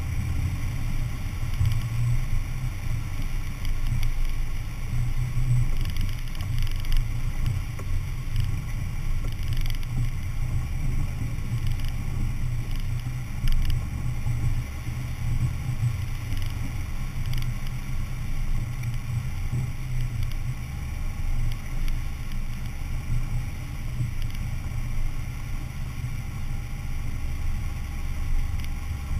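Four-wheel-drive vehicle driving: a steady low engine and road rumble.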